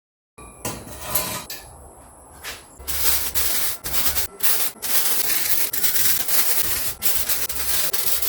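Wood being sanded: a rough scratching noise that starts after a moment of silence and comes in a few short spells. From about three seconds in it runs almost continuously, with a few brief breaks.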